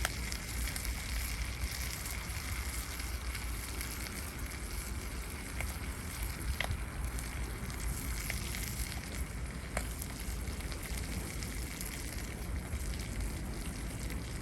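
Wood fire burning in a homemade fire stand, a steady hiss with a few faint crackles, over a steady low rumble of wind on the microphone.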